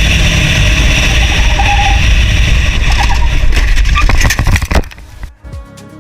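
An engine running steadily under loud rumbling noise, with a few knocks near the end; it cuts off suddenly about five seconds in and quieter music begins.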